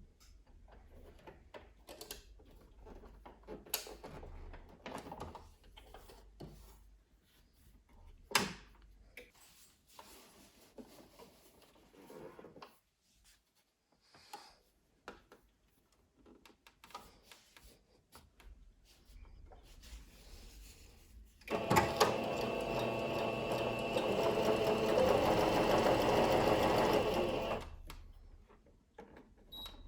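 Scattered light clicks and knocks of handling, then a Singer Curvy sewing machine runs steadily for about six seconds and stops.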